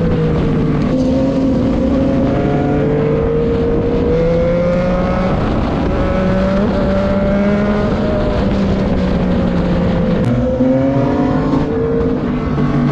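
Racing motorcycle engines (inline-fours and inline-threes) running hard at high revs. The pitch climbs slowly and drops back at gear changes, about a second in and again near the end.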